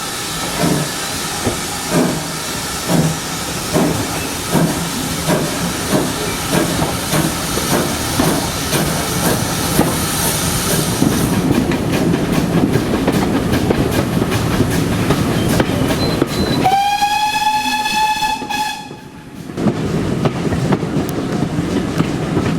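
Steam locomotive pulling away, its exhaust beats coming quicker and quicker until they merge into the steady sound of the train running. About seventeen seconds in comes a single whistle blast lasting about two seconds.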